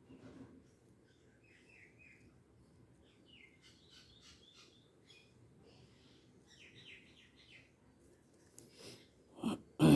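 Faint birds chirping and tweeting in the background over a low room hum, with two loud bumps near the end.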